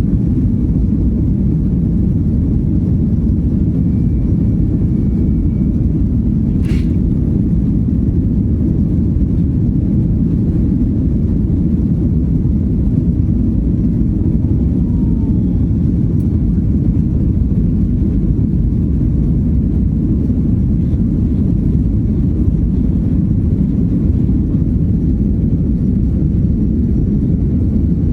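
Steady low rumble of a Boeing 737-900ER's CFM56 engines and airflow, heard from inside the passenger cabin, with one sharp click about seven seconds in.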